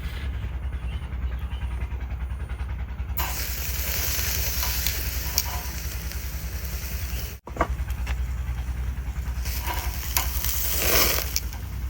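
Food sizzling and hissing as it fries in a pan over a campfire, with small crackles over a steady low rumble. The sizzle comes in about three seconds in, breaks off briefly at an edit cut, and swells again near the end.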